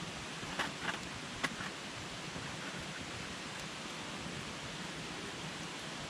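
Wood campfire burning with a steady hiss, giving three sharp crackles in the first second and a half.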